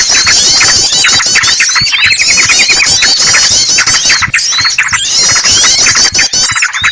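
Bird-lure recording of dense, overlapping bird calls: yellow-vented bulbul (trucukan) chatter mixed with the shrill, agitated distress calls of a trapped bird, played loudly to draw small birds in. Rapid chirps and quick up-and-down whistled strokes run on without a break, with brief lulls about four seconds in and again near the end.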